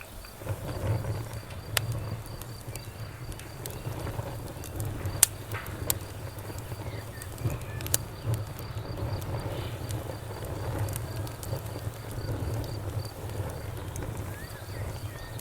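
Campfire crackling, with a low steady rumble of the burning fire and a handful of sharp pops and snaps, the loudest about five seconds in. A faint, even cricket chirping runs underneath.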